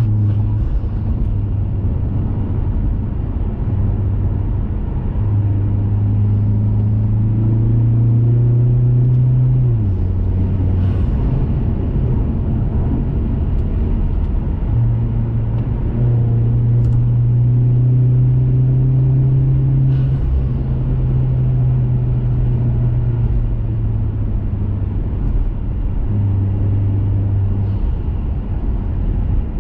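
2021 Mazda 3 Turbo's 2.5-litre turbocharged four-cylinder running through a CorkSport cat-back exhaust while driving, a steady low drone that steps up and down in pitch several times with throttle and speed, over a constant hiss of road noise.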